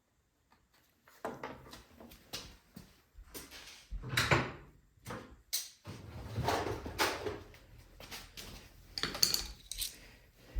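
Irregular clicks, knocks and scraping of tools and metal and plastic parts being handled while a snowblower engine is taken apart, louder clunks about four and seven seconds in.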